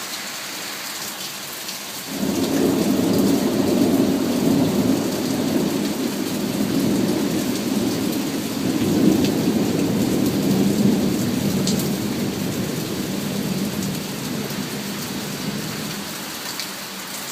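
Steady heavy rain with a long rolling thunderclap: a sudden low rumble breaks in about two seconds in, swells twice and slowly dies away toward the end, over the hiss of the rain.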